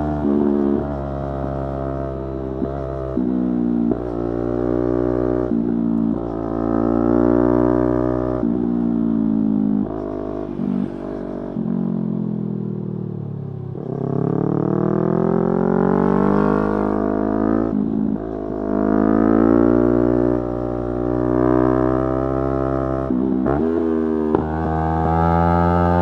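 Yamaha YZF-R3's 321 cc parallel-twin engine under way, revving up through the gears with a short dip in pitch at each shift. About ten seconds in the revs wind down steadily, then it pulls up through the gears again and settles to an even pitch near the end.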